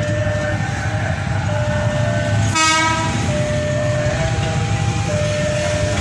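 Electric KRL commuter train pulling out, its low steady rumble running throughout, with one short train horn blast about two and a half seconds in.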